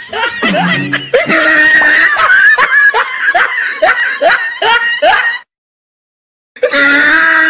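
Edited-in comedy soundtrack: rapid, high-pitched snickering laughter over music. It drops out to dead silence for about a second a little past halfway, then resumes.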